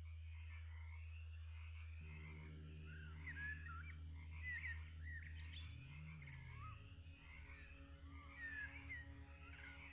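Birds chirping in short, quick, sliding notes over a steady low drone. A chord of held, music-like tones joins the drone about two seconds in.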